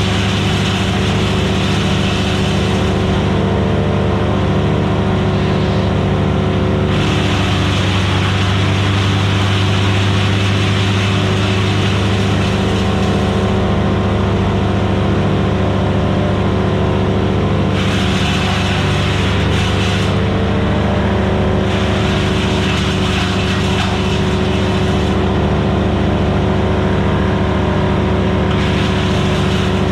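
Vermeer BC1000XL gas wood chipper running steadily under power, with a hiss that grows and fades every few seconds over the steady engine note.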